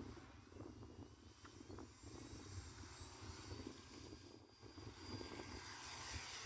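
Faint whine of an E-flite Air Tractor RC model's electric motor and propeller, its pitch rising a little about three seconds in, over low wind buffeting on the microphone.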